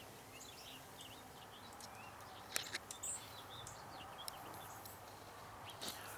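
Small birds chirping and calling in short, scattered notes, with a couple of sharp clicks about two and a half seconds in.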